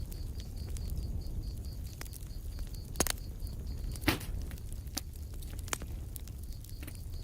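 Wood fire in a fireplace crackling: scattered small snaps over a low rumble of flames, with two louder pops about three and four seconds in.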